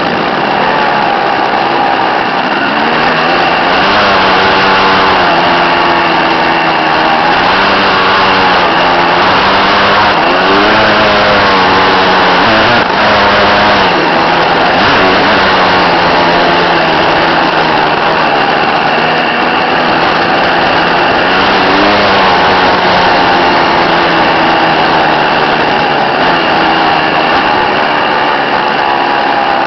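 Dirt bike engine running loudly, its pitch rising and falling repeatedly as the throttle is opened and eased off.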